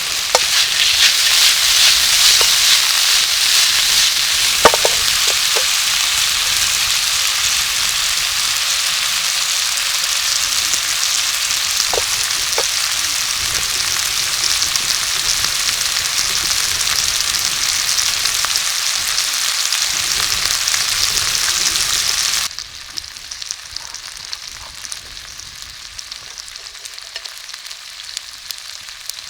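Food sizzling loudly in a hot pan, with a few sharp knocks of a utensil against the pan. About 22 seconds in, the sizzle drops suddenly to a much quieter level.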